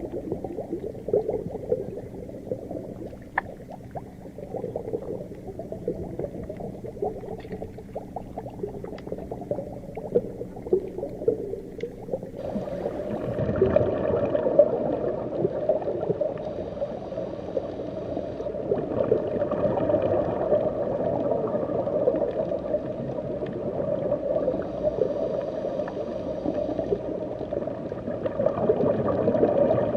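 Deep underwater ocean ambience: a muffled, low bubbling and gurgling wash. About twelve seconds in it turns louder and brighter.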